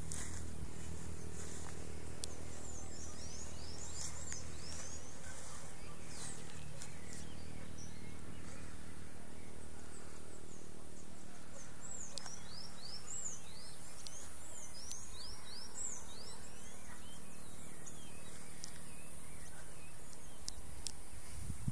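Outdoor ambience with a steady low hum that fades out about halfway through. A bird sings two runs of quick, high, downward-sweeping notes, a few seconds in and again from about twelve to sixteen seconds.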